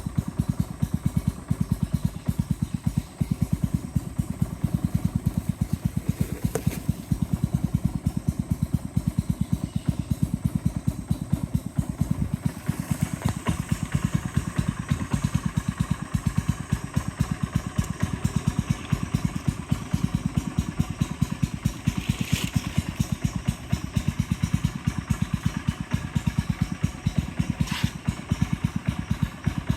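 Boat motor running steadily, with a rapid, even pulsing beat.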